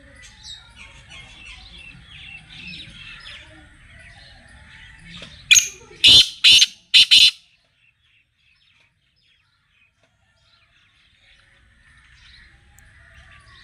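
Black francolin (kala tetar) calling: a loud run of four harsh, grating notes about five and a half seconds in, over faint chirping of small birds.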